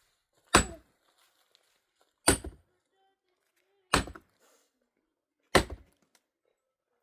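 Four heavy tool strikes, evenly spaced about a second and a half apart, each with a short high ring.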